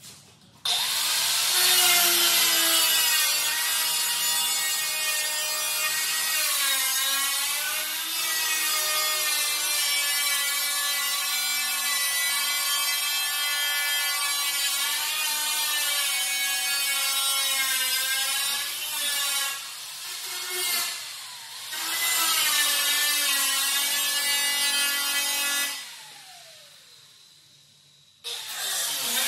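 Rotary cut-off tool cutting the sheet-metal rear quarter panel of a 1968 Camaro: a loud high whine whose pitch sags each time the wheel bites into the metal, with a short break about two-thirds of the way in. Near the end it stops cutting and winds down with a falling pitch, then starts up again.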